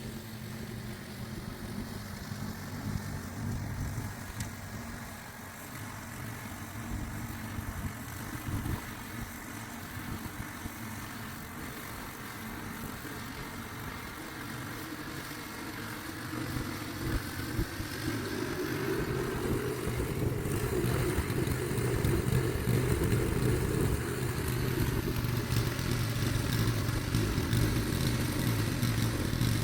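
An engine running steadily, growing louder about two-thirds of the way through and holding there.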